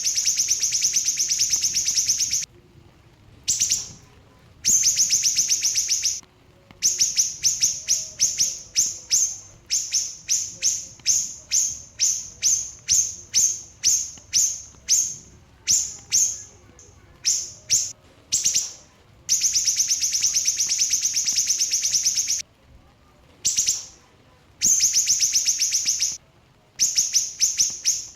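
Small siri-siri bird singing rapid, dense, high-pitched trills. Long unbroken runs of two or three seconds alternate with strings of short quick bursts, about two a second, with brief pauses between.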